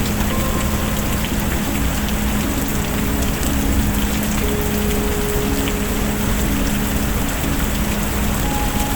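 Steady heavy rain hissing, with scattered small clicks and crackles through it. Soft held low tones sit underneath and change pitch slowly.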